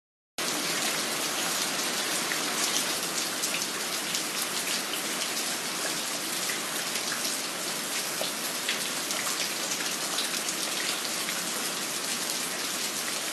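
Steady rain falling: a dense, even hiss of countless drops with small individual drop ticks scattered through it. It starts abruptly about half a second in and holds a constant level.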